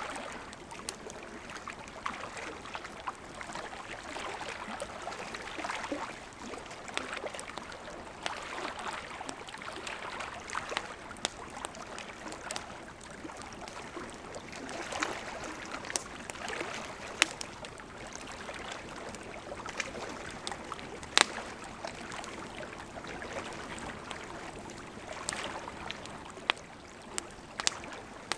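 Burning wood campfire crackling: a steady, swelling hiss of flames with frequent sharp pops and snaps, a few of them louder, the loudest about two-thirds of the way through.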